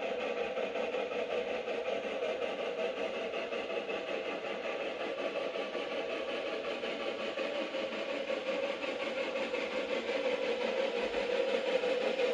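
Shay geared steam locomotive working, a steady mechanical din that grows louder over the last couple of seconds.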